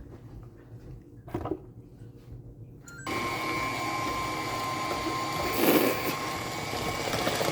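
Electric mixer switched on about three seconds in, running steadily with a whine as it beats cake batter.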